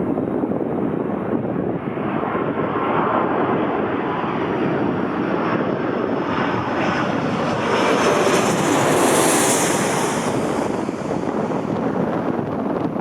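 Jet airliner passing: a broad engine rush that builds to its loudest about eight to ten seconds in, with a sharp high-pitched edge at the peak, then begins to fade. A faint, slightly falling whine runs under it in the first half.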